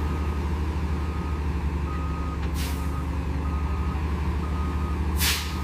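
A truck reversing: its diesel engine runs steadily while the reversing alarm beeps over and over at a steady pace. Two short hisses of air from the air brakes come about two and a half seconds apart.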